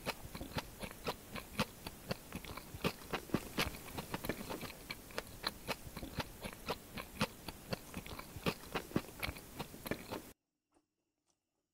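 Close-miked chewing of a crisp fried gujiya pastry, with many sharp crunches in quick succession. The sound cuts off abruptly shortly before the end.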